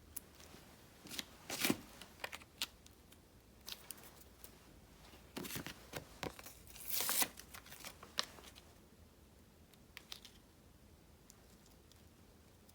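Paper and stickers being handled on a desk: scattered light taps and short paper rustles, with a longer, louder rustle about seven seconds in.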